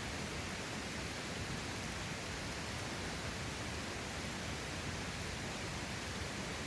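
Steady, even rushing of a mountain valley stream's flowing water.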